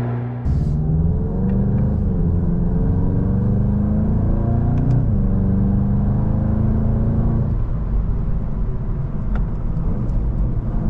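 Exhaust of a 2025 VW Golf GTI Clubsport's turbocharged four-cylinder engine accelerating, the revs climbing for about five seconds and then dropping sharply at an upshift, after which it runs on at steadier revs.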